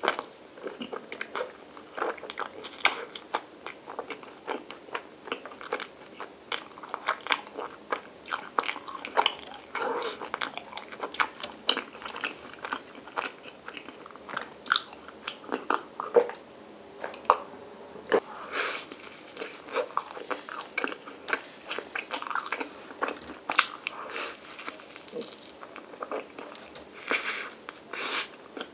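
Close-miked eating sounds: soft white bread spread with Nutella and topped with vanilla ice cream being bitten and chewed, with many sharp wet mouth clicks and smacks at an irregular pace. About halfway through there is a drink of milk, then another bite of the bread near the end.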